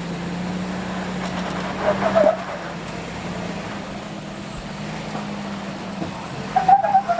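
Off-road pickup truck driving with its engine running at a steady drone and tyres rumbling over the trail. A short high squeal comes about two seconds in and again near the end.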